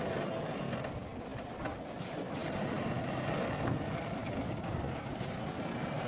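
Heavy diesel earthmoving machinery running steadily with a low rumble. There are brief high clinks about two seconds in, again just after, and near the end.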